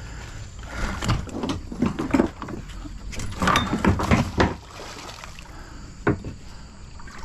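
Irregular knocks and clatter of scrap metal being tugged and handled against a kayak, busiest in the middle.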